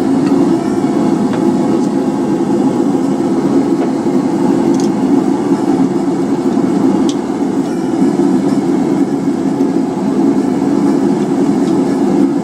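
Blacksmith's forge running with a steady, even rushing noise while the workpiece heats, with a couple of faint metallic ticks near the middle.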